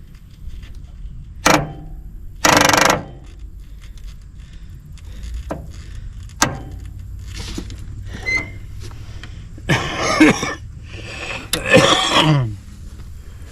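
Sharp metallic clicks and clunks, with two short rough mechanical bursts near the end whose pitch drops away, from an attempt to crank the 1954 Fordson tractor. The starter is not cranking the engine: it is either locked up or not getting enough current.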